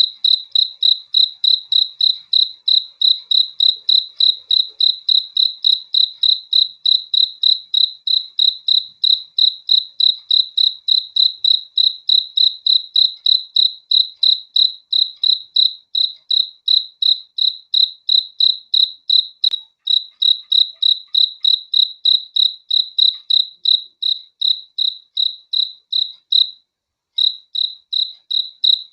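A cricket chirping steadily in a fast, even rhythm, about three to four chirps a second, each chirp one clear high-pitched tone. The chirping breaks off for about half a second near the end, then resumes.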